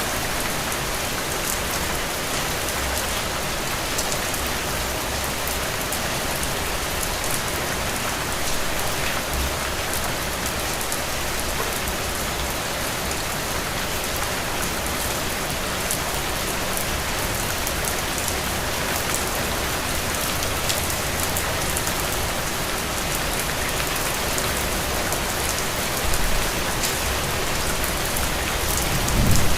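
Heavy rain falling steadily: a dense hiss with individual drops ticking through it, and a brief low rumble near the end.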